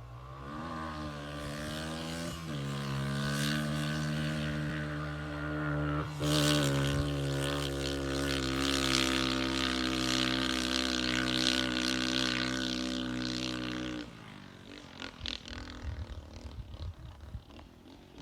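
Dirt bike engine running steadily at a raised speed. Its pitch climbs over the first couple of seconds and steps up about six seconds in. The engine note falls away suddenly about fourteen seconds in, leaving quieter, uneven noise.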